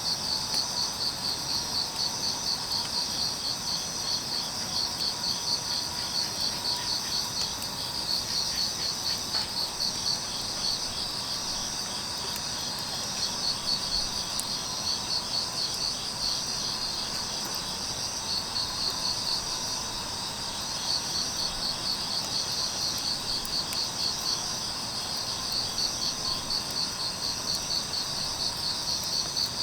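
Crickets or other field insects chirping in steady pulsed trills, with the pulsing letting up briefly twice.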